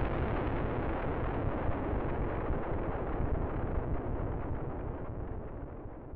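The end of a hip hop outro track: a dense rumbling noise like gunfire or explosions, fading out steadily toward the end.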